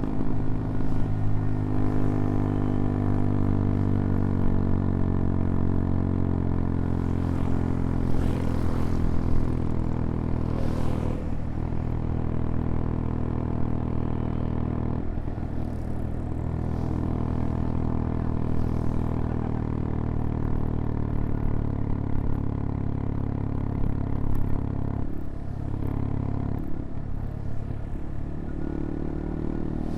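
Small single-cylinder engine of a CFMoto Papio XO-1 motorcycle running under way, its note rising and falling with the throttle and dropping briefly several times as the throttle is rolled off or a gear is changed.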